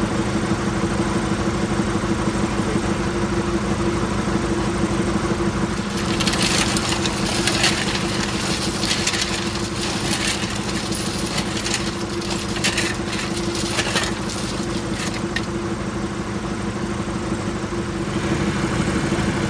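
An engine running steadily at a constant speed. From about six seconds in to about fifteen seconds, a dense run of irregular scraping and rattling noises sounds over it.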